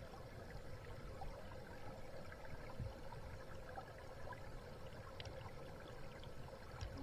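Faint, steady sound of flowing water.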